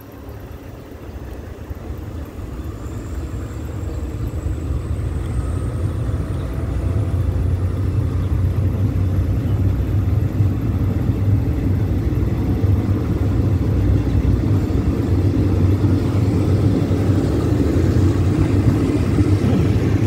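Passenger train running, heard from an open window of a coach: a low rumble of the wheels on the rails that grows louder over the first several seconds as the train gathers speed, then holds steady.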